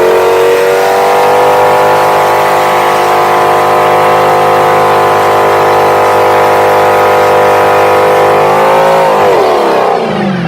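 Muscle car engine held at high revs during a burnout, its pitch rising slightly at first, then held steady for about eight seconds before dropping as the throttle comes off near the end.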